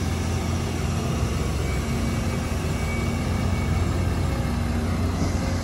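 Heavy diesel engine running steadily, a low drone with no change in pitch.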